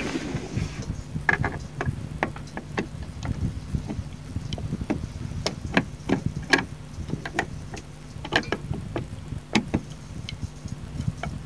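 Irregular small clicks and knocks of hard plastic and metal as a Roland EX-20 keyboard is handled while being opened up, over a steady low hum.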